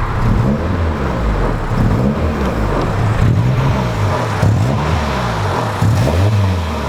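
Acura Integra's B18B1 four-cylinder engine running unevenly, its pitch rising and falling about once a second: the engine is misfiring and will not rev past a certain RPM.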